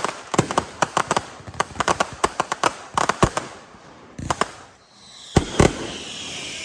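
Roman candle buckets firing a rapid run of sharp pops. About five and a half seconds in come two louder bangs, and then a steady hiss with a slowly falling pitch sets in.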